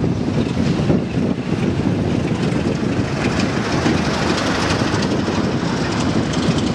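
Passenger train rolling past, its coaches' wheels running on the rails with a steady rumble and faint clicks, with wind buffeting the microphone.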